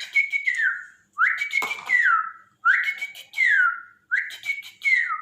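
Bird-like whistled call repeated four times, about one phrase every second and a half. Each phrase rises quickly, holds a high wavering note, then slides down.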